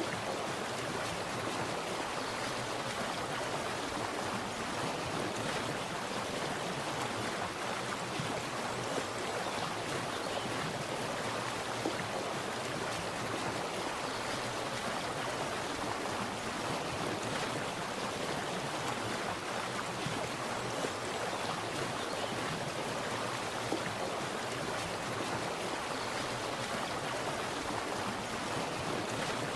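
Water splashing continuously, a steady even rush with faint small splashes here and there.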